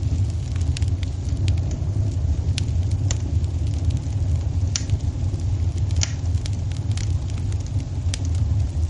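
Wood fire burning in a fireplace: a steady low rumble with scattered sharp crackles and pops, several louder snaps spaced a second or so apart.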